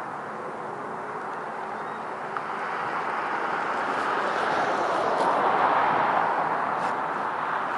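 Helicopter running, a steady rushing noise of rotor and engine that grows louder toward the middle and eases slightly near the end.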